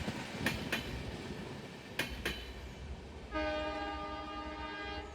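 Train wheels clicking sharply over rail joints, four clicks, then about three seconds in a locomotive horn sounds one steady blast lasting nearly two seconds.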